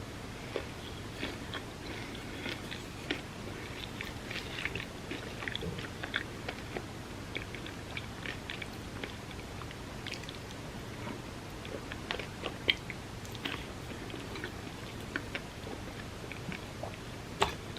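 Close-miked mouth sounds of a person eating soft cake soaked in milk: irregular wet chewing and small smacking clicks, over a steady hiss. Two sharper clicks stand out, one past the middle and one near the end.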